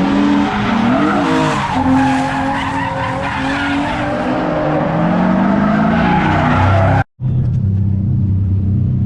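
Drift car engine revving up and down under load with tyres skidding. About seven seconds in the sound cuts off abruptly and gives way to a steady low engine hum.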